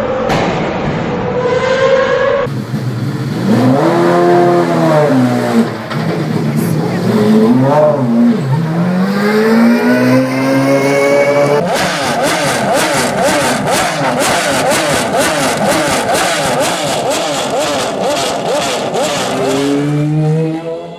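Pagani Zonda's Mercedes-AMG V12 revving hard, its pitch sweeping up and down several times. Later it holds a steady high-revving note with a rapid, even pulsing, about three pulses a second.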